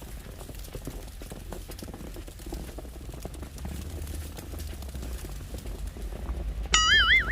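Footsteps crunching through fresh snow in a steady walking rhythm. Near the end a sudden high warbling, whistle-like call breaks in, wavering up and down in pitch.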